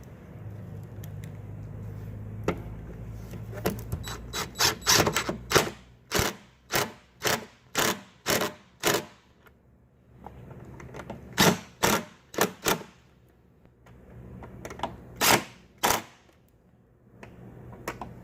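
Power drill running as a screw is driven in, with a low motor hum. It is joined by runs of sharp, loud clicks, about two a second, several times over.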